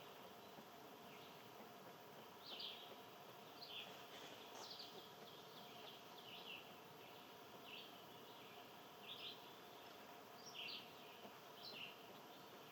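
Faint bird chirps: short high notes repeated irregularly, about one a second, over a faint steady background hum.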